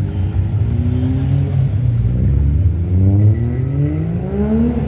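Car engine accelerating over a low rumble, its pitch rising several times, with the longest climb peaking near the end.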